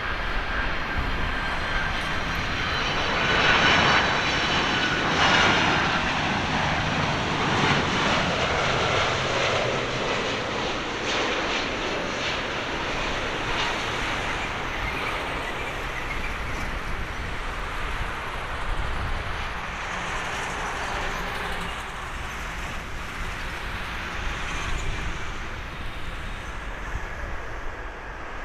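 Jet engines of a Boeing 767-300F freighter going by. A whine over a roar is loudest about four seconds in, then slowly fades to a steady rumble.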